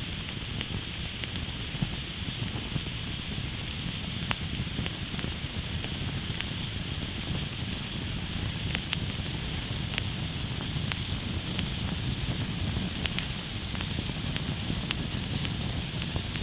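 Campfire burning down, crackling with scattered sharp pops over a steady hiss.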